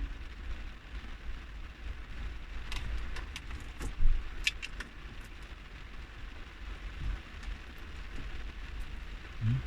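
Rain falling on a car body, heard from inside the cabin as a steady patter, with a few sharp clicks and taps between about three and five seconds in.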